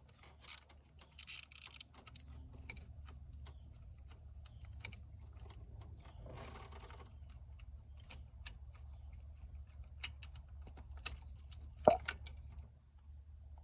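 Scattered metallic clicks and clinks of a socket wrench and small parts being handled while the 10 mm ignition coil bolts are worked on, over a low steady hum. There is a sharper cluster of clicks about a second in and another near the end.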